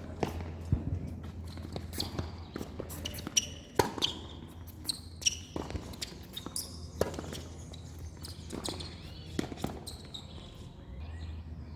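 Tennis play on a court: a tennis ball being struck and bouncing, heard as a dozen or so sharp knocks at irregular spacing, mixed with footsteps.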